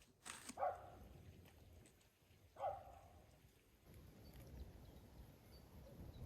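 Two short animal calls about two seconds apart, over faint background.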